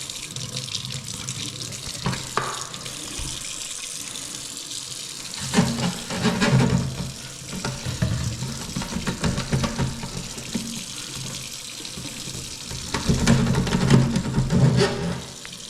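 Water running steadily in a kitchen sink, with two louder, deeper spells of flow about six seconds in and again near the end.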